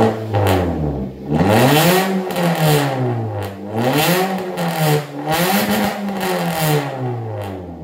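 Toyota Calya's engine revved through an aftermarket racing exhaust muffler, blipped up and down about four times before falling back toward idle near the end.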